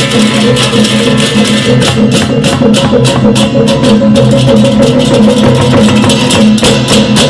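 Balinese gamelan playing: rapid, steady strokes of metal percussion over sustained ringing pitches.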